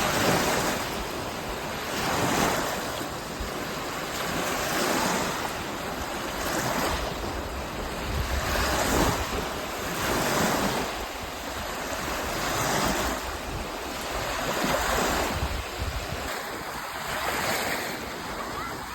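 Small Lake Michigan waves breaking and washing onto a sandy beach, the surf swelling and easing about every two seconds.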